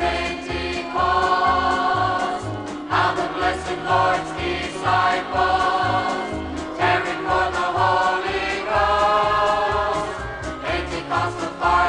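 Choir singing a Christian gospel song over instrumental accompaniment, with a steady bass line of about two notes a second.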